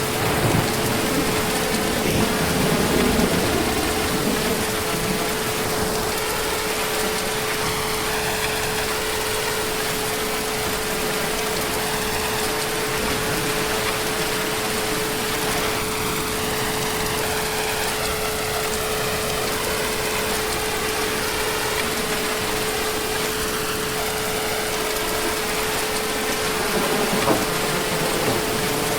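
Heavy rain falling steadily, with a steady hum running under it and a brief low swell a few seconds in.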